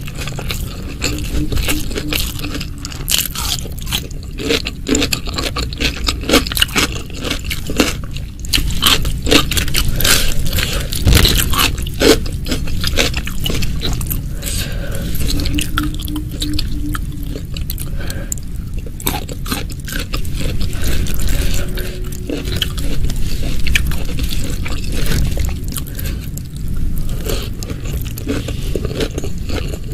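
Close-miked eating: steady chewing and crunching, with scraping, from a meal of stir-fried shallots and egg, crispy tempe, petai and rice.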